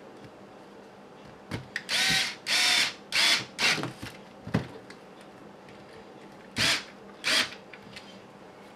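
Small electric screwdriver running in short bursts as it drives screws into the kit's parts: four quick runs close together, then two more a few seconds later. A few light clicks between them.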